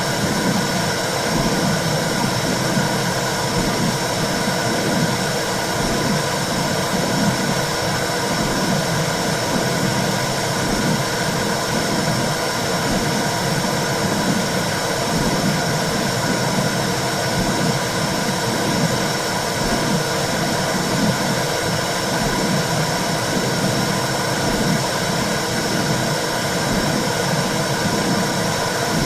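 Womb sound for soothing a baby: a steady whooshing hiss with a regular low pulse, roughly once a second.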